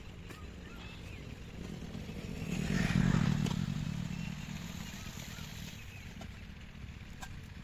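A motor vehicle's engine passing by. It grows louder to a peak about three seconds in, then fades away.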